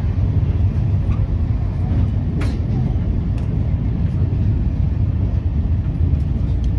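Rupashi Bangla Express passenger coach running at speed: a steady low rumble of wheels on the track, with one short click about two and a half seconds in.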